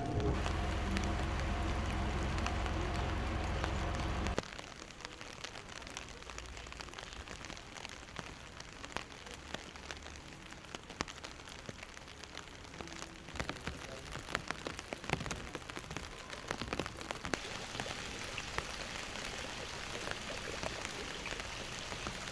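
Steady rain falling, with scattered sharp drip taps. For about the first four seconds a louder low hum with a few held tones lies over it, then cuts off suddenly.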